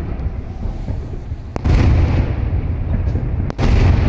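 Aerial firework shells bursting: two loud booms about two seconds apart, the first about a second and a half in, each followed by a long low rumble.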